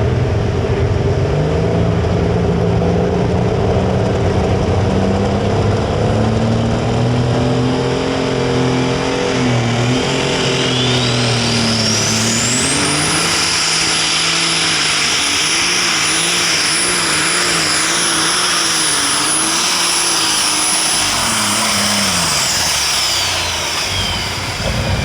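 Light super stock pulling tractor making a hook run at full throttle, its engine working under load with its pitch wavering in the middle of the pull. A turbocharger whine climbs to a very high pitch about ten seconds in, holds, then winds down as the engine pulls off near the end.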